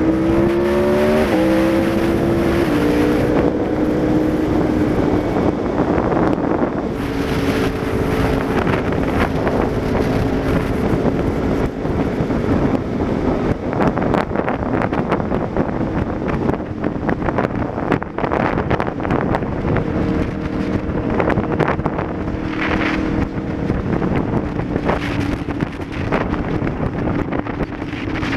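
Aprilia Tuono V4 APRC's V4 engine through an aftermarket Laser exhaust, rising in pitch and dropping back in quick steps in the first few seconds as it accelerates through the gears, then running at a steady pitch. Wind noise on the microphone runs underneath.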